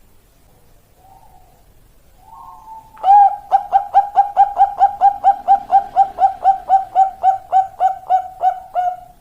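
Zebra dove (perkutut) singing its long song: a few soft coos, then about three seconds in a loud run of some two dozen quick, evenly spaced cooing notes, about four a second, lasting about six seconds.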